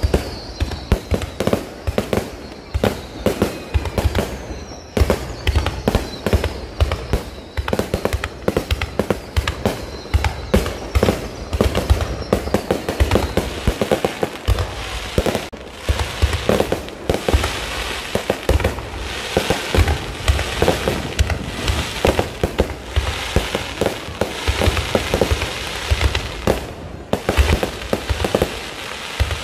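Low-altitude fireworks display going off in rapid, continuous bangs. Falling whistles sound in the first few seconds, and a dense crackling fills the second half.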